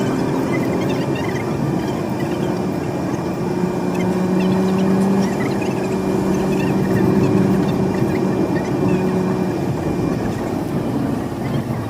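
Road and engine noise of a moving vehicle on a bumpy road, with long steady tones held for several seconds in the middle and many small squeaks and rattles.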